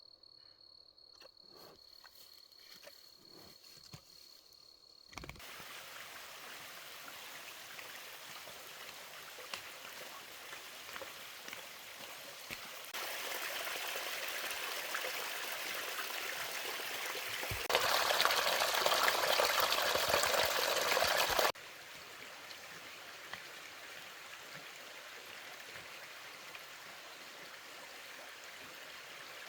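Steady rush of water. It starts abruptly about five seconds in, after a few quiet seconds of faint clicks and a thin high tone. It gets louder in two sudden steps, then drops back sharply about three-quarters of the way through.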